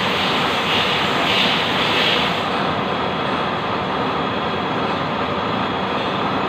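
Lathe running with a steady machine noise. Hissy swells come and go for the first two and a half seconds, then the noise settles, a little quieter and duller.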